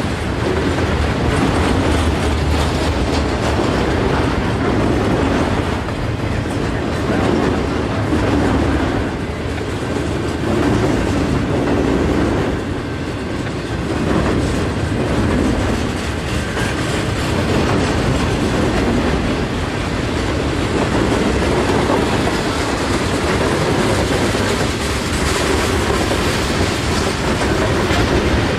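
Freight train cars rolling past at close range, a steady rumble with the wheels clacking rhythmically over the rail joints.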